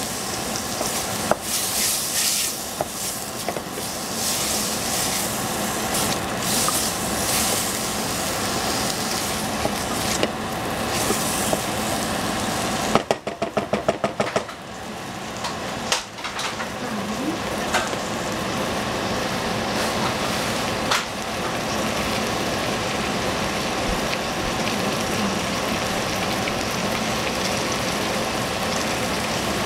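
Diced vegetables sizzling steadily in a frying pan, with occasional clicks and scrapes of a utensil. About halfway through comes a quick rattle of taps lasting a second or so.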